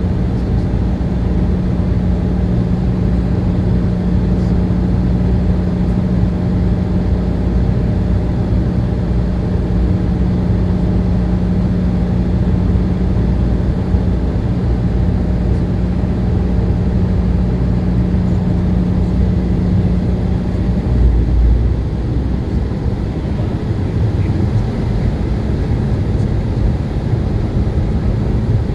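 Steady airliner cabin noise: jet engines and airflow giving a loud, even rumble. A steady low hum fades out about 21 seconds in, with a brief swell of low rumble at that point.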